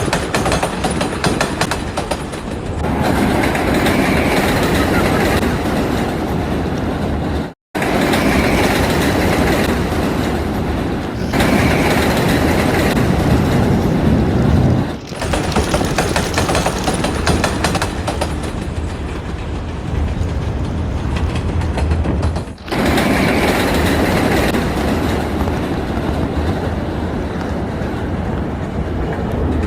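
Train running along its track with a steady rumbling clatter, in several stretches joined by sudden cuts.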